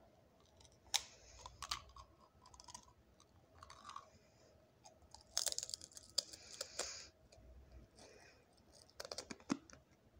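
Person biting and chewing a crisp potato chip close to the microphone: irregular sharp crunches, with a dense run of crunching about five to seven seconds in and another short run about nine seconds in.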